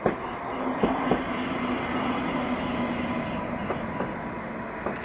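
ICE 1 power car (class 401 electric locomotive unit) running light past at speed: a steady rolling roar with a hum during the first half of the pass. Sharp clicks come as its wheels strike the track, two close together about a second in and more near the end.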